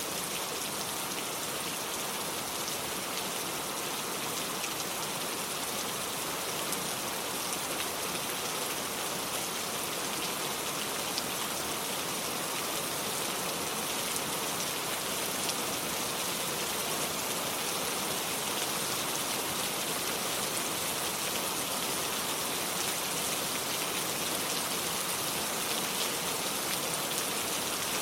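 Steady rainfall: an even hiss of rain with scattered small drop ticks, unchanging throughout.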